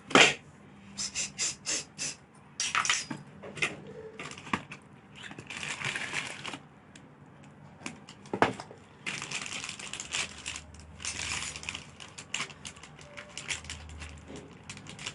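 A knife cutting chicken lollipops makes sharp clicks and knocks, a quick run of about five early on, then longer stretches of scraping and rustling.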